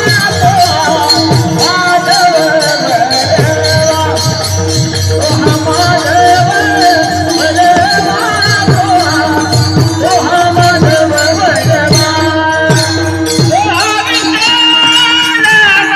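Marathi devotional kirtan singing: voices carry a bending melody over a steady held tone, accompanied by mridang drum strokes and jingling hand cymbals that keep a regular beat.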